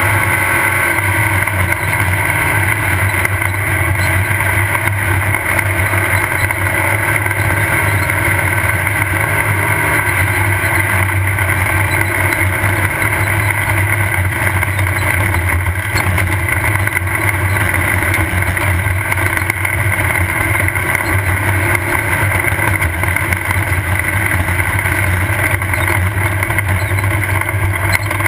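Off-road race car's engine running loud and steady at speed, heard from on board, with no big revs or lifts.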